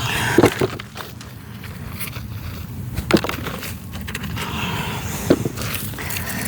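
Dry, crumbly soil being dug through by hand to lift potatoes: rustling and crunching, with a few sharp knocks, two close together right at the start and single ones about three and five seconds in.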